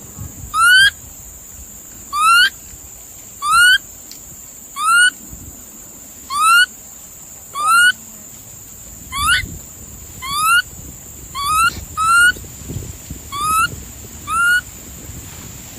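An animal calling over and over: a short, rising, squeaky cry repeated about a dozen times, roughly one every second and a bit.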